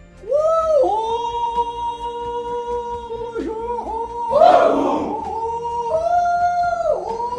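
Several men's voices performing the nabbah, the Shihuh greeting howl: long held, overlapping calls that swoop up and down in pitch, with a louder, rougher cry about four and a half seconds in.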